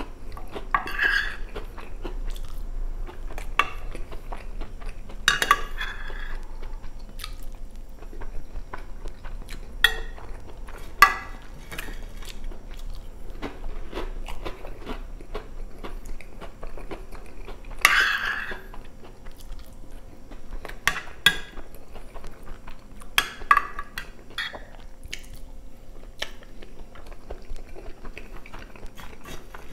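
Chewing and crunching of chicken strogonoff with rice and crispy shoestring potato sticks, irregular and crackly, with a metal spoon now and then clinking and scraping against a glass baking dish.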